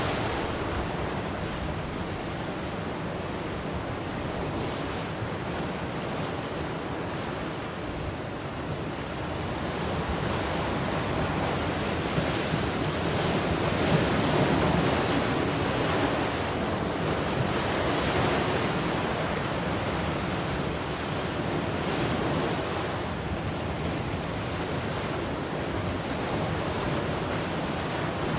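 Ocean surf washing onto the shore in a continuous rushing wash, swelling and easing as waves break, with some wind noise on the microphone.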